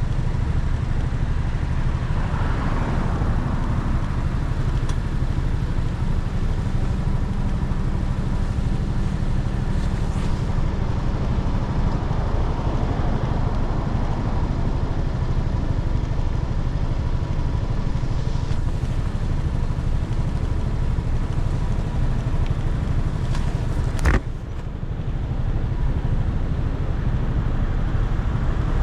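Motorcycle engine running steadily under way, mixed with wind and road noise. A single sharp click comes about 24 seconds in, and the sound is briefly quieter after it.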